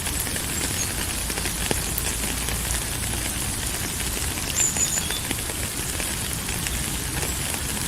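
Steady rain falling, a dense patter of drops over a low rumble, with a brief high chirp about halfway through.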